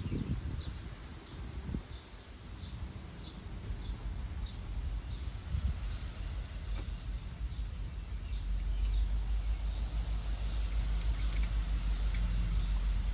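A small animal's short high chirp repeating about three times every two seconds, over outdoor background. A low rumble builds in the second half, and there is a single click near the end.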